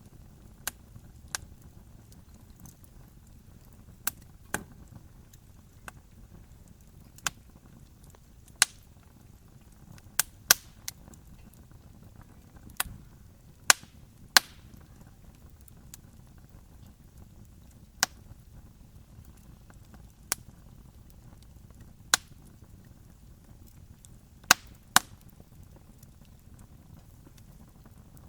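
Wood fire crackling: irregular sharp pops and snaps, some loud, a few close together in pairs, over a steady low rumble of the burning fire.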